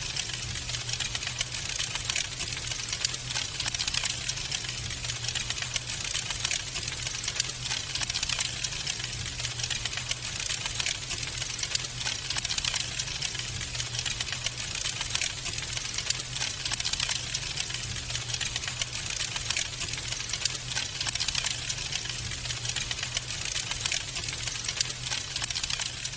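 Wood fire crackling in a fireplace: a dense, steady patter of small snaps and crackles with a few louder pops scattered through, over a constant low rumble.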